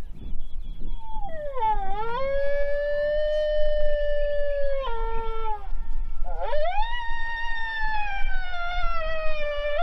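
Coyote howls blown on a predator call: two long howls. The first dips, then holds steady before breaking downward; the second rises sharply and slowly sags in pitch. A low rumble runs underneath.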